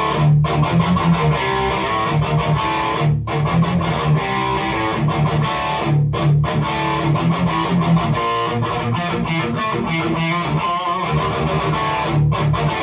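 Distorted electric guitar riffing in D tuning: an ESP H-201 through a REVV G3 distortion pedal on its lower-gain setting, into the 6L6 power amp of a Randall Diavlo RD20 tube head. Tight chugging low notes with a crisp attack, broken by short pauses between phrases.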